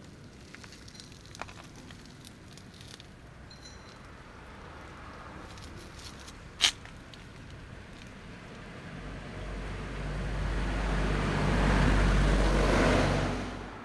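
A motor vehicle passes by, swelling over several seconds from about nine seconds in and fading away near the end. Before it there are only faint clicks and one sharp tick about six and a half seconds in.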